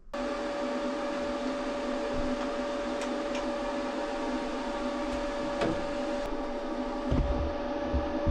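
A power tool's electric motor running steadily with a constant whine, with a few light clicks and some low knocks near the end.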